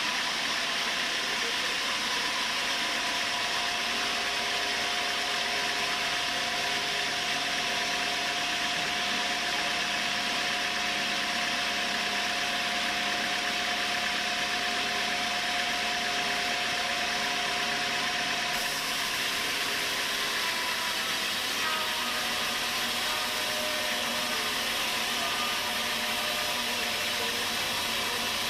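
Sawmill saw running steadily through timber, a constant hiss with a steady whine that stops about two-thirds of the way through.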